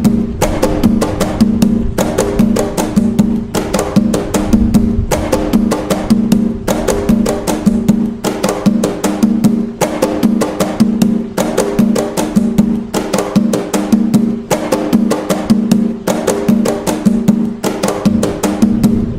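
Atabaque hand drumming in the toque nagô rhythm of Umbanda: a steady run of quick strokes in a repeating cycle, over the drumheads' ringing low tone.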